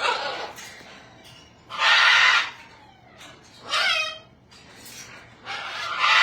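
A parrot calling: four loud, harsh squawks about two seconds apart, the third with a wavering pitched tone.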